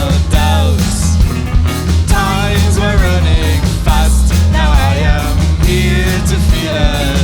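A rock band playing live: a steady drum beat and heavy bass under a melodic line that bends up and down.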